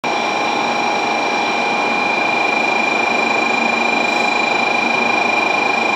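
A steady mechanical rush with several constant high whining tones. This is the sound of a Shinkansen station platform as an N700S bullet train draws slowly in.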